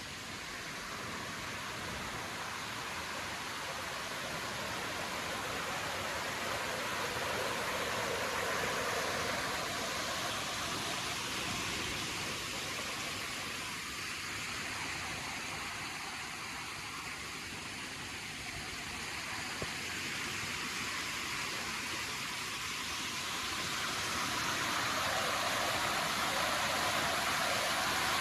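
Steady outdoor rushing noise of forest ambience, without distinct events, swelling and easing gently over several seconds.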